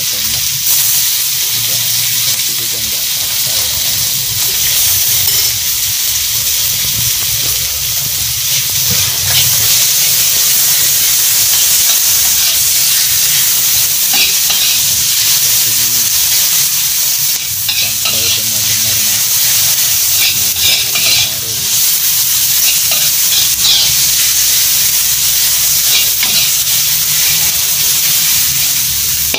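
Spice paste with tempe and tomato sizzling steadily in a hot wok, with a metal spatula scraping and clinking against the wok as it is stirred, more often in the second half. This is the seasoning paste frying until it is cooked.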